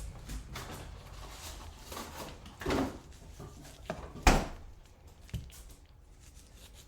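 A few separate kitchen knocks and clatters, the loudest about four seconds in, from pineapple being trimmed with a knife on a cutting board and utensils being handled.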